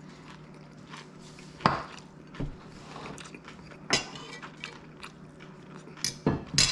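Knife and fork clinking against a plate while steak is cut and eaten: a handful of sharp, scattered clinks, three in quick succession near the end.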